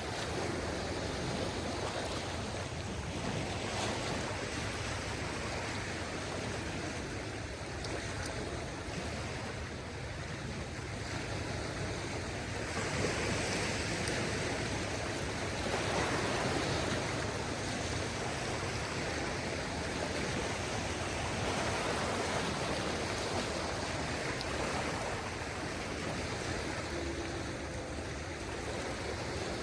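Small waves of a calm sea washing onto the shore: a steady hiss of water that swells gently and eases off, louder a little before the middle.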